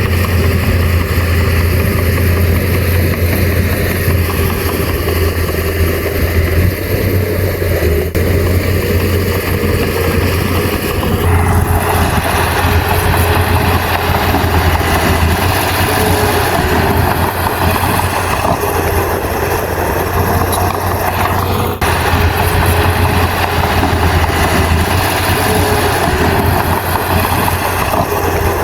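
Bulldozer's diesel engine running steadily with a deep, constant hum; about eleven seconds in the sound turns harsher and noisier, as under heavier working load, with a brief drop near the end.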